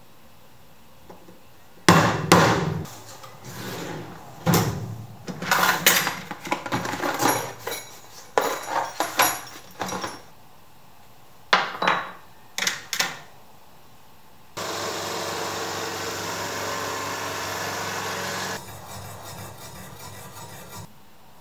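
Hand-tool workshop work on wood: a series of sharp knocks and clattering, like hammering and tools being set down. After that comes a steady mechanical noise lasting about four seconds, then a quieter steady noise.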